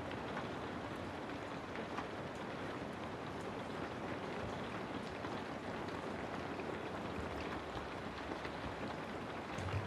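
Steady rain ambience: an even hiss of rainfall with scattered small drop ticks, and a brief low rumble near the end.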